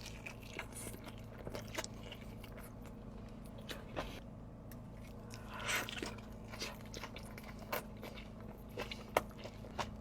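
Close-miked eating of an In-N-Out Flying Dutchman: quiet chewing with scattered wet mouth clicks and smacks, a little louder around six seconds in.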